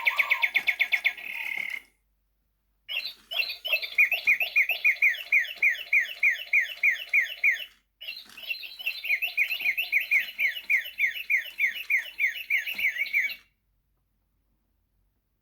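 Sound-activated toy singing birds playing electronic birdsong. It comes as three runs of rapid, evenly repeated chirps, about four a second, with short gaps between the runs.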